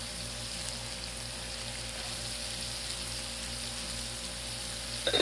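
Chopped onions, celery and sliced smoked sausage frying on a hot Blackstone flat-top griddle, a steady sizzle.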